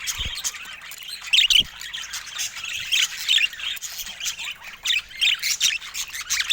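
Budgerigars chattering and warbling continuously, broken by louder harsh squawks several times.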